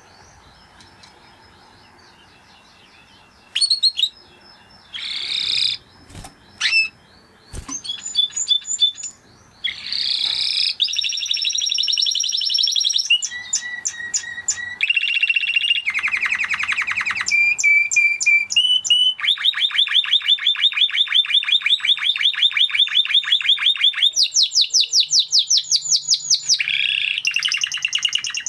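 Spanish Timbrado canary singing: after a quiet start, a song of short whistled notes and rapid trills and rolls that builds into long, fast trills in the second half.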